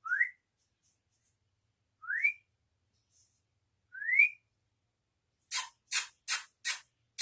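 Three short rising whistles about two seconds apart, each sliding up in pitch. Near the end come five short harsh bursts in quick succession.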